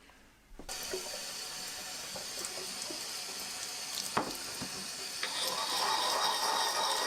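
Sink tap turned on under a second in, water running steadily into the sink; a single knock just after four seconds, and the running water grows louder about five seconds in.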